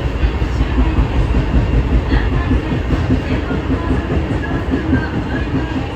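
Kita-Osaka Kyuko 9000 series electric train running, heard from on board: a steady, loud rumble of wheels on the track.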